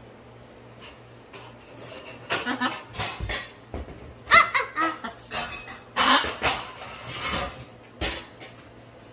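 Blue-and-gold macaw giving a series of short squawks and chattering calls, starting about two seconds in. Some calls are harsh, and one near the middle rises in pitch.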